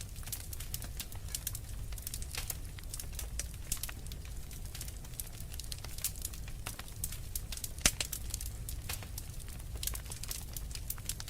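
Wood fire crackling, with dense irregular snaps and pops and one louder pop near the end, over a steady low rumble.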